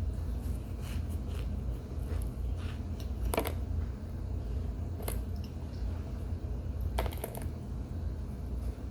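Biting and chewing a soft, squeaky chunk of homemade cornstarch and baby powder: a few sharp squeaky crunches, the loudest about three and a half, five and seven seconds in. A steady low hum runs underneath.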